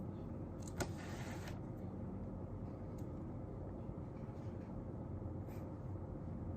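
Quiet desk sounds of studying over a steady low room hum: a sharp click about a second in, then a brief scratching of pen or paper, and a couple of faint ticks later.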